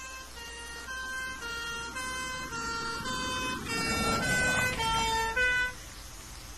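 British emergency vehicle's two-tone horn, alternating between two notes about every half second as the vehicle approaches and passes. The horn grows louder over engine and road noise, drops in pitch as it goes by, then cuts off suddenly.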